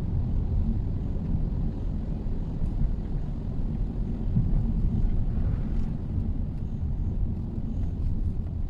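2023 Mitsubishi Xpander being driven: a steady low rumble of engine and road noise.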